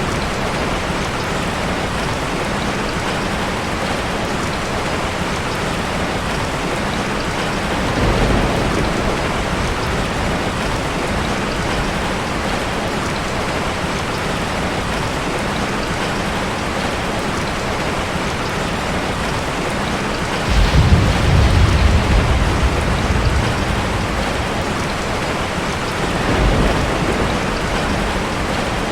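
Heavy rain falling steadily, with low rolls of thunder: a short one about 8 seconds in, the loudest and longest about 20 seconds in, running for several seconds, and a smaller one near the end.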